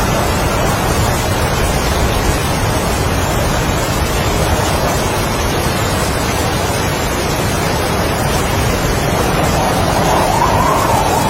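Heavy rain and strong wind making a steady, loud hiss, with a gust of wind briefly rising and falling in pitch near the end.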